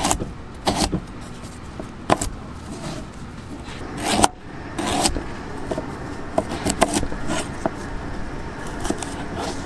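Irregular clatter of kitchen work: a string of sharp knocks, scrapes and metal rattles, the loudest knock about four seconds in.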